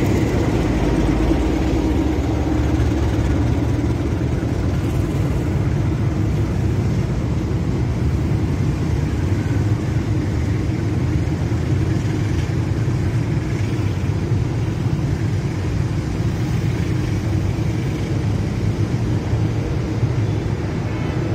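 KAI CC 206 diesel-electric locomotive pulling away with its engine running, followed by stainless-steel executive-class passenger coaches rolling slowly past with a steady low rumble. The engine is most prominent in the first couple of seconds, then the coaches' rumble takes over.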